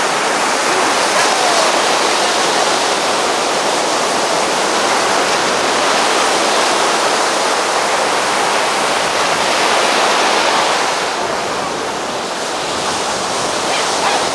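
Steady rush of water, easing slightly about eleven seconds in.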